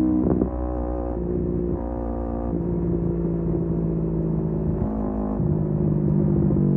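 Kawasaki Z250 parallel-twin engine with a SeaPro aftermarket muffler, running while cruising: a steady exhaust note that shifts pitch in steps a few times, with a quick blip about half a second in.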